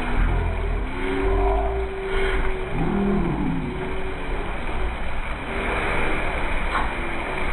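Staged flash-flood effect: water rushing and splashing down the set with a deep, steady rumble, faint voices of onlookers mixed in.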